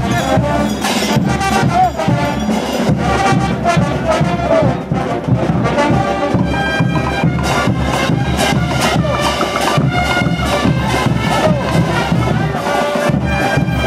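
Brass band playing diablada music: brass horns carrying the melody over a steady drum beat.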